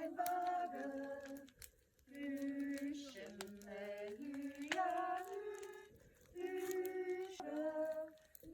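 A woman singing a slow melody in long held notes that step up and down between phrases, with two short breaks between phrases. Sharp clicks are scattered through it.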